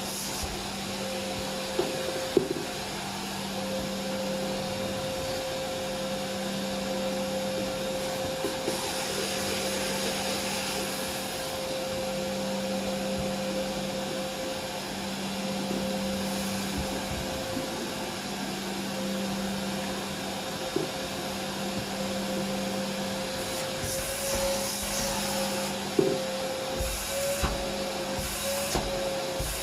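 Vacuum cleaner running steadily with a constant motor hum and airy suction hiss. The hiss swells at times as the nozzle works over a surface, and a few sharp clicks sound as debris is picked up. Near the end the motor's pitch wavers slightly as the suction load changes.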